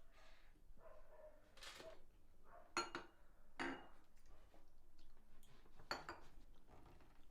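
Faint, scattered clinks and scrapes of cutlery and dishes, a few sharper clicks among them.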